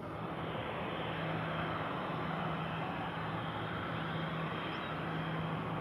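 Airliner jet engines running, a steady, even noise with a low hum underneath.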